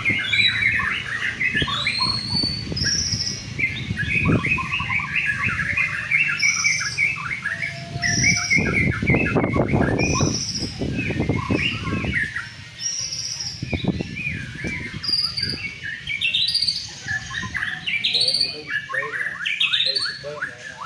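White-rumped shama (murai batu) singing a long, varied song of quick chirps and whistles, with a high note repeated about once a second through the middle. Some low background noise comes and goes under the song near the middle.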